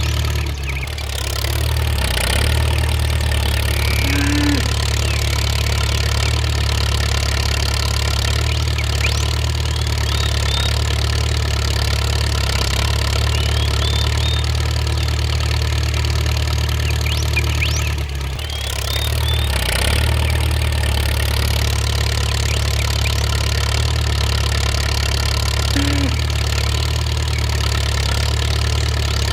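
An engine idling steadily, with brief dips in level about a second in and again about two-thirds of the way through.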